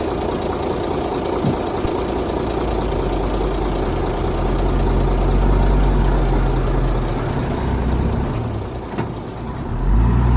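Heavy diesel earthmoving machinery running, a deep steady engine drone that builds from about two seconds in. It dips briefly near the end, then comes back louder.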